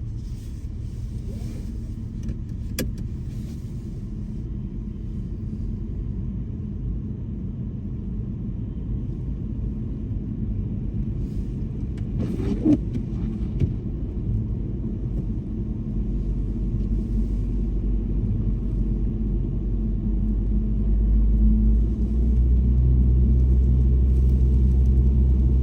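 Low rumble of a car being driven, engine and road noise, growing steadily louder toward the end, with a single sharp click a few seconds in.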